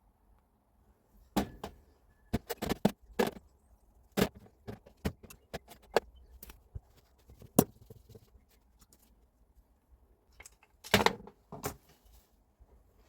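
Irregular sharp clicks and clanks of tools and metal parts being handled while a Hilti TE76 rotary hammer is worked on by hand, with a quick cluster of knocks near the end.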